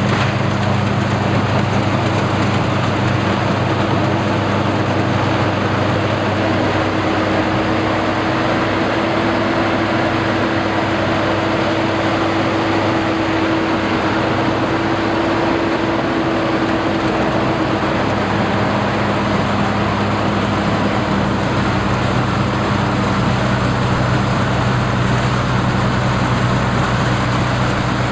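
Combine harvester running steadily: a low engine hum under a constant mechanical clatter, with a higher hum that swells in the middle and fades again.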